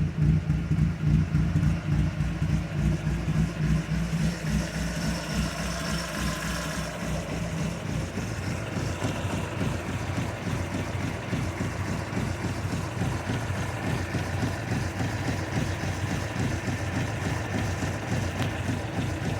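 Austin EB65's engine idling, easing to a slightly quieter, steady idle over the first several seconds.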